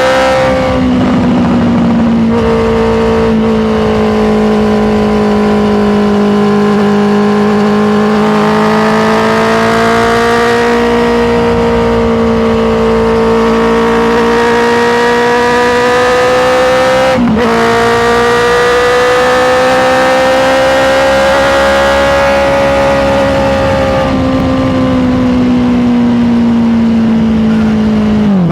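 Honda CBR650R's inline-four engine running under way, its pitch rising and falling gently with the throttle, with brief sharp dips in revs about two seconds in and about seventeen seconds in.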